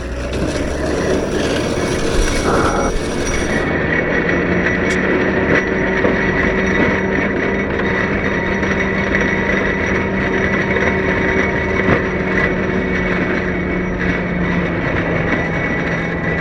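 CAT 908 compact wheel loader's diesel engine running hard with a steady whine while its snow pusher scrapes along the pavement, a continuous grinding rattle.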